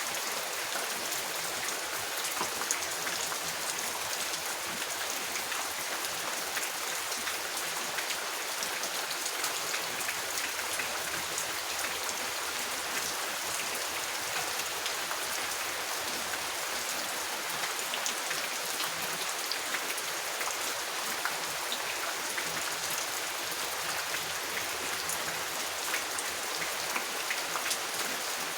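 Steady rain: an even hiss of rainfall with many small, sharp drop hits scattered through it.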